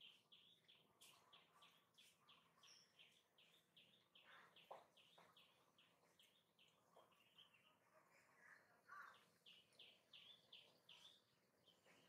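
Faint, rapid series of short high chirps from a bird, about three or four a second, stopping for a couple of seconds past the middle and then resuming, with a few soft clicks in between.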